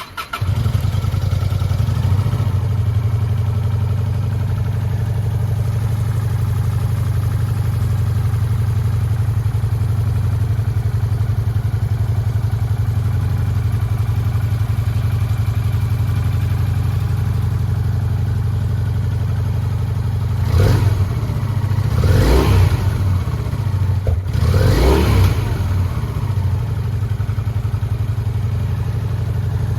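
Honda VT400S V-twin motorcycle engine starting and settling into a steady idle, then revved three times about two-thirds of the way in, each blip falling back to idle.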